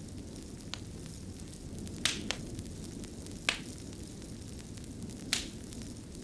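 Wood fire burning with a steady low rumble and hiss, and about five sharp crackles and pops, the loudest about two and three and a half seconds in.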